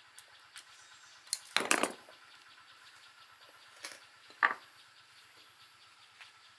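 Scattered knocks and clatters of tools and parts being handled. The loudest is a short clatter about one and a half seconds in, and a single ringing clink comes at about four and a half seconds.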